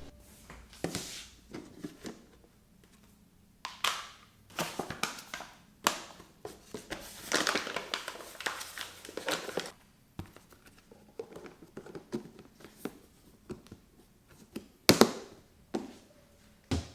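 Household handling noises in a small room: objects being set down with thunks and taps, and stretches of rustling or crinkling like packaging being handled. A sharp loud knock comes about fifteen seconds in, and another near the end.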